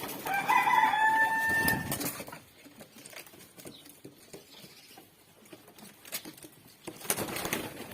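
A bird gives one drawn-out, high-pitched call lasting about a second and a half, wavering at first and then holding one note. After it come only faint clicks.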